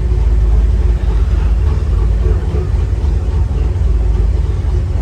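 Steady low engine rumble and road noise heard from inside the cab of a car cruising slowly.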